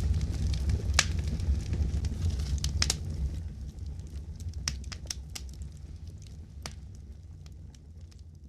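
Wood fire crackling: scattered sharp pops and snaps over a low steady rumble of flames. The loudest pop comes about a second in, and the whole sound fades gradually away.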